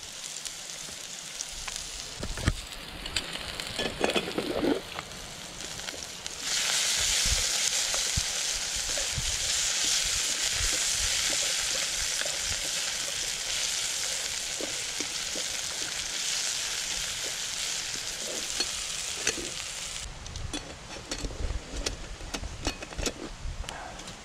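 Sliced potatoes and onions frying in oil in a Firebox 10-inch fry pan over a wood fire, stirred with a spatula. The sizzle comes up strongly about six seconds in and falls away near the end. Scattered clicks and knocks around it come from the utensils and from wood being fed into the folding stove.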